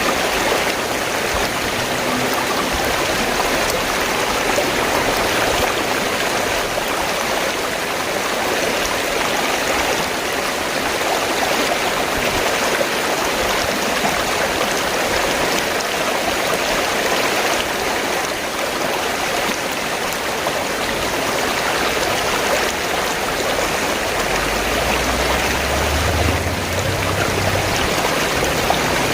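River water flowing steadily, an even rushing wash of water; a low rumble joins in near the end.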